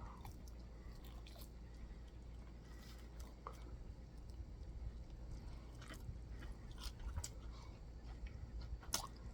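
People chewing and biting chicken wings: faint, scattered mouth clicks and smacks, a little louder about six, seven and nine seconds in.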